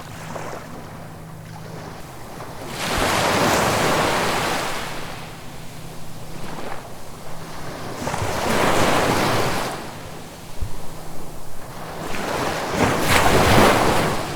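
Ocean waves breaking and washing up the shore, three surges in turn, roughly every four to five seconds, each swelling and then falling away into a softer hiss.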